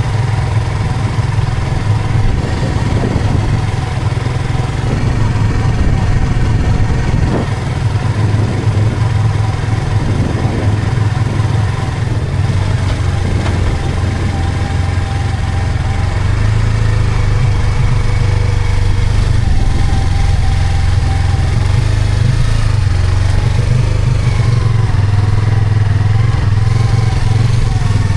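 Yamaha R25 motorcycle's parallel-twin engine running steadily, a little louder from about halfway through.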